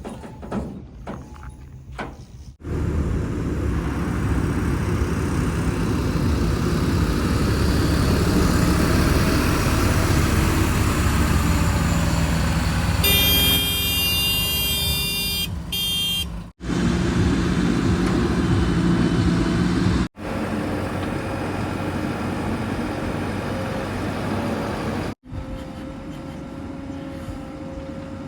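Heavy vehicle engines running, in several short clips that cut abruptly from one to the next, with a horn sounding for about three seconds near the middle.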